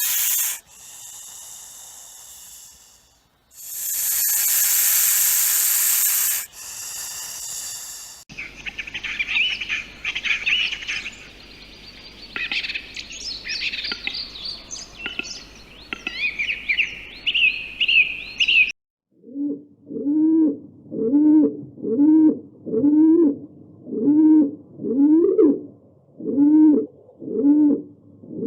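A sequence of separate animal recordings: first two loud bursts of hissing noise, then about ten seconds of quick high bird chirps and song, then a low cooing call repeated about once a second, each call sliding up and down in pitch.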